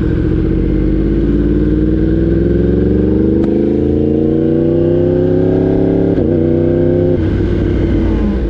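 Motorcycle engine pulling away under gentle acceleration, its pitch rising slowly for about five seconds, then dropping suddenly about six seconds in as it shifts up a gear, and easing off again about a second later.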